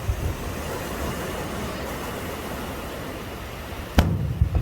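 Fireworks shells bursting over steady background noise: a low rumbling echo of an earlier bang at the start, then one sharp bang about four seconds in, followed by low rumbling.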